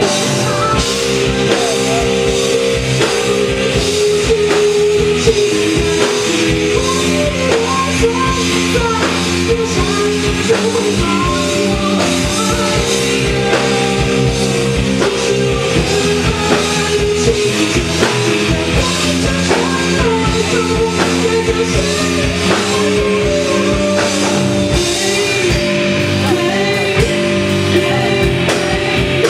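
A rock band playing live: drum kit hits over sustained chords, steady and loud throughout.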